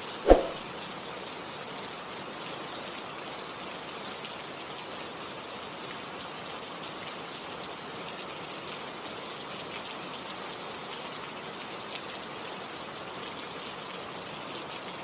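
Steady rain falling, an even hiss throughout. A single sharp strike sounds just after the start, the loudest thing here, and rings out within about half a second.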